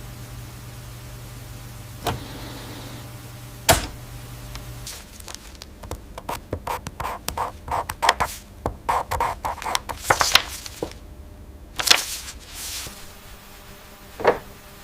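A steady low hum that cuts off about five seconds in, then a busy run of sharp clicks and knocks, like hard objects being handled and set down, with a few louder knocks near the end.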